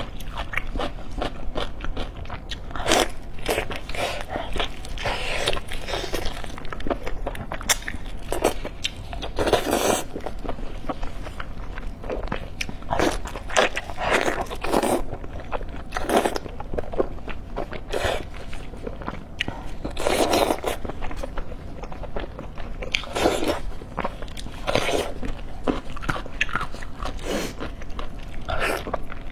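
A person chewing and biting food close to the microphone, with irregular crunching and wet mouth sounds.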